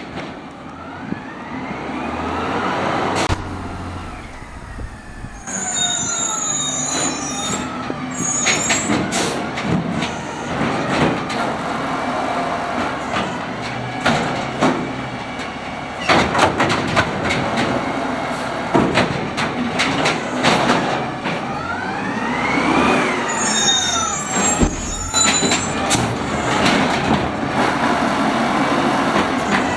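Automated side-loader garbage truck, natural-gas powered, emptying carts with its hydraulic arm while the engine stays at idle. A whine rises and falls twice as the arm lifts and lowers, with knocks and bangs from the cart being tipped and set down, and a few brief high squeaks.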